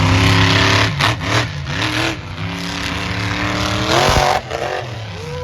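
Monster truck engine revving hard. The note holds high, dips twice as the throttle comes off, then climbs in a rising rev about four seconds in and cuts off suddenly.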